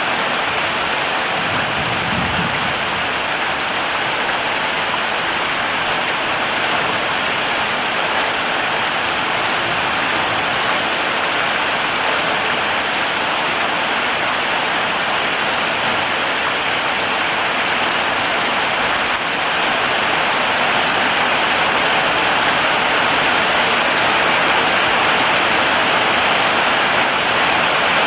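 Heavy rain falling steadily, a dense even hiss, with a brief low rumble about two seconds in; the downpour grows a little louder about two-thirds of the way through.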